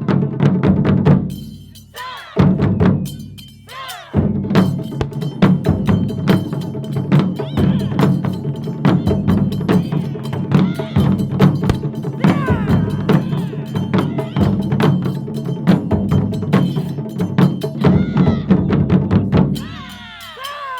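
Ensemble of Japanese taiko drums playing a fast, driving rhythm, with two brief breaks near the start and stopping near the end.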